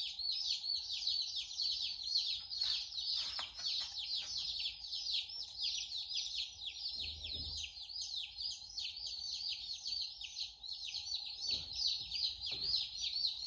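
A box of day-old meat chicks peeping continuously, a dense chorus of many overlapping high, falling peeps. A few faint low thuds come from the chicks being handled.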